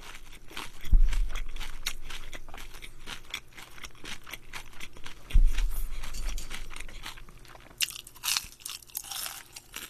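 Close-miked crunching and chewing of battered fried shrimp, the crisp coating crackling between the teeth. Two dull low thumps come about one and five seconds in, and a fresh run of sharper crunching bites starts near the end.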